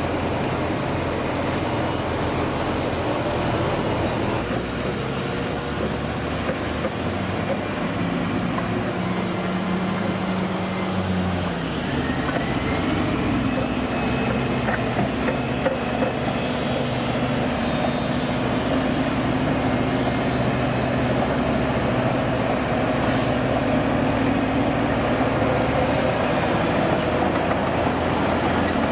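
Heavy vehicle diesel engine running steadily, its engine note shifting to a new pitch a little before halfway through.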